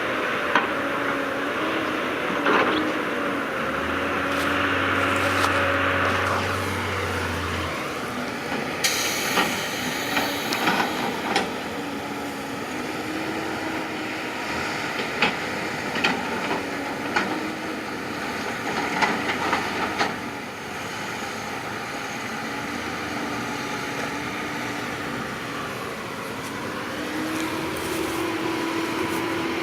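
Diesel engine of heavy earthmoving machinery running steadily, its pitch stepping up and down a few times, with scattered knocks and clanks.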